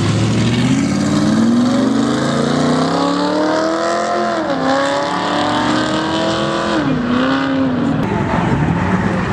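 A car accelerating hard, loud. Its engine pitch climbs, drops at a gear change about four and a half seconds in, climbs again and drops at a second shift near seven seconds, then fades.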